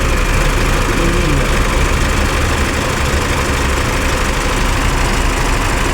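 Isuzu Mu-X turbodiesel engine idling steadily.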